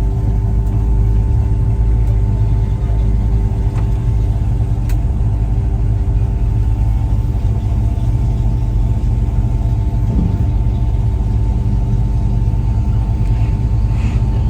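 The V8 of a 1972 Ford Mustang Mach 1 running steadily, heard from inside the cabin with the window down, under a loud, even low rumble.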